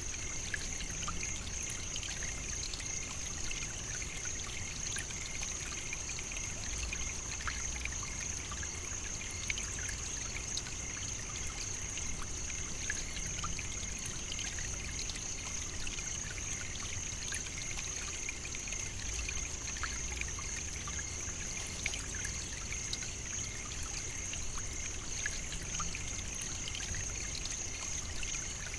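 Steady savannah nature ambience: an unbroken high-pitched shrill drone with a fainter, lower one beneath it, scattered tiny clicks and a low rumble.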